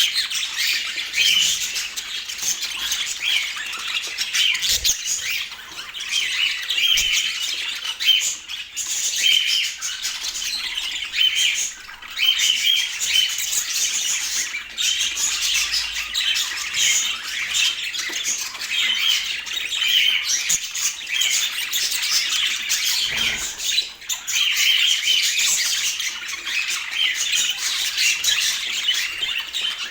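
Budgerigars chattering without a break, a dense run of high chirps and squawks.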